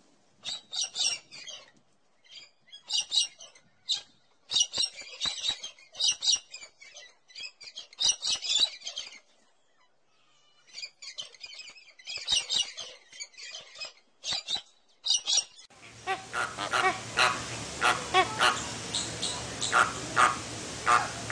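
Birds calling in short chattering bursts, with quiet gaps between them. About three-quarters of the way through, the sound changes abruptly: a steady hiss comes in under a denser run of sharp calls.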